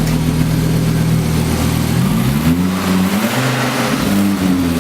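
Audi S2's turbocharged inline-five running through a Borla exhaust, a 3-inch pipe split into twin 2.25-inch pipes: steady idle, then revved up and let fall back twice from about halfway.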